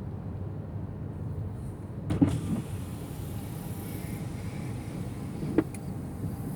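Steady low rumble inside a pickup truck's cab, with a short knock about two seconds in and a sharp click near the end.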